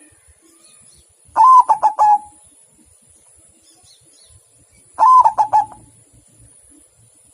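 Zebra dove (perkutut) cooing: two phrases about four seconds apart, each an opening note that rises and falls followed by a quick run of short notes.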